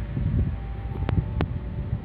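Train running by: a low, uneven rumble with wind buffeting the microphone, and two sharp knocks about a second in.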